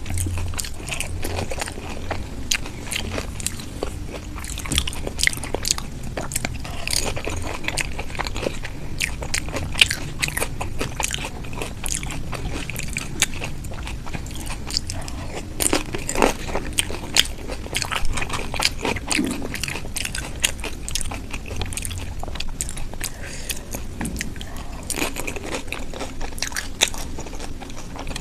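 Close-miked eating of dahi puri: crisp puris filled with yogurt crunching and crackling as they are bitten and chewed, in a dense, irregular run of sharp crunches.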